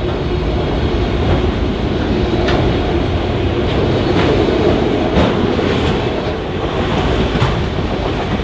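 Norfolk Southern freight train cars rolling past close by: a steady heavy rumble of steel wheels on rail, with irregular sharp clacks over the rail joints.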